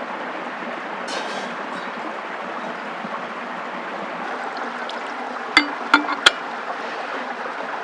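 Steady rush of running water, with three sharp knocks in quick succession a little past halfway.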